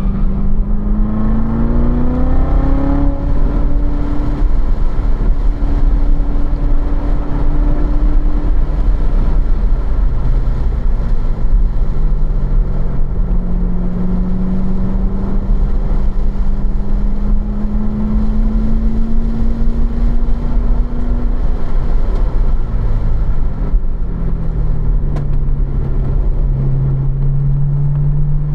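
2015 Corvette Z06's supercharged 6.2-litre V8 driving a track lap at around 3,000 rpm, heard from inside the cabin over road and wind rumble. The engine note rises over the first few seconds and holds, dips and climbs slowly again in the middle, then falls as the car slows near the end.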